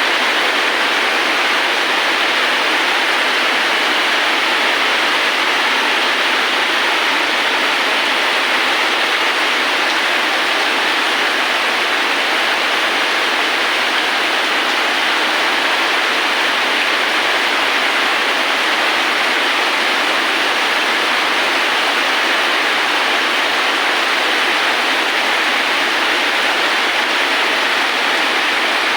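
Steady, heavy rain: a dense, even hiss with no single drops or other sounds standing out.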